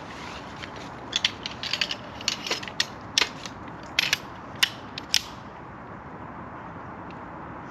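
An irregular run of sharp mechanical clicks and rattles for about four seconds, stopping a little past halfway, over a steady background hiss.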